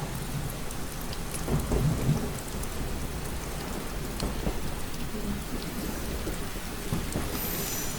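Steady rain with scattered individual drops tapping, and a low rumble of thunder swelling about a second and a half in.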